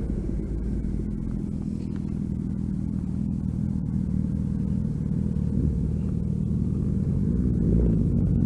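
Motorcycle engine running at low, fairly steady revs with a low rumble, the revs rising near the end as the bike accelerates.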